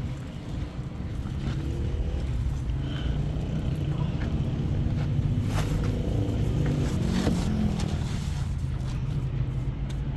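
Motor vehicle engine and road noise: a steady low rumble with the engine pitch rising and falling twice as it changes speed, and two sharp clicks in the second half.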